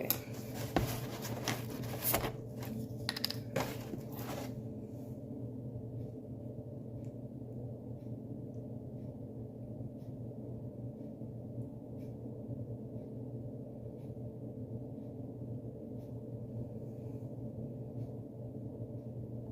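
Clinks and knocks of kitchen utensils and containers being handled while measuring milk for a mug cake, bunched in the first four seconds or so, then a steady low hum with a few faint ticks.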